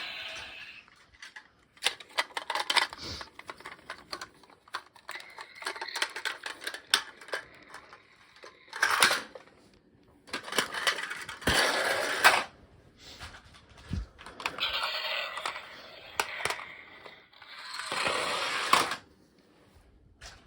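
Small plastic toy trucks being handled: irregular clicks, knocks and rattles, with several scraping or rolling noises of a second or two each.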